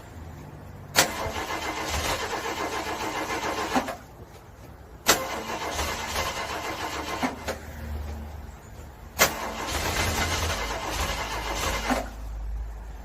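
Car engine being cranked over by its starter in the cold, in three attempts of about three seconds each. Each attempt opens with a sharp click and runs as a rhythmic chugging, and the engine does not catch.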